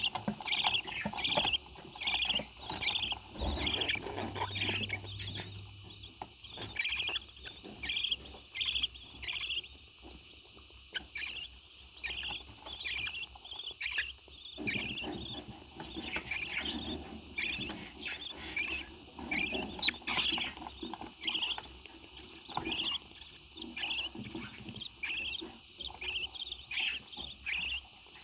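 Parrot chirping over and over in short, evenly spaced notes, about two a second, dropping fainter around the middle.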